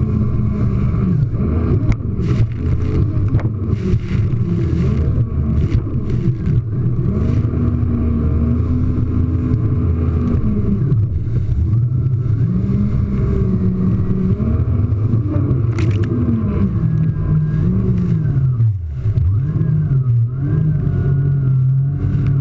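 Jet ski engine running under way, its pitch rising and falling many times as the throttle opens and closes, with frequent short sharp noises over it.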